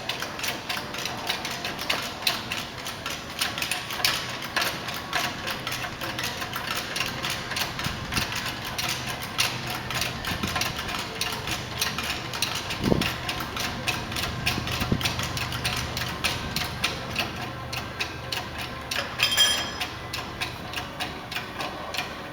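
Aircraft jack being pumped to raise a Cessna R182 off its wheels: a steady run of rapid mechanical clicks and knocks. There is a dull thump about halfway through and a short high ring near the end.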